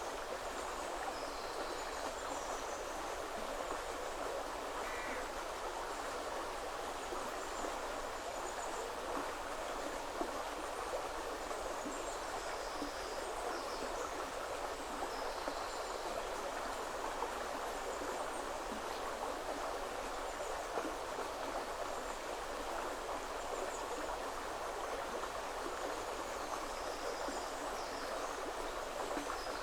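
Woodland river flowing with a steady rush of water, and faint high bird chirps now and then.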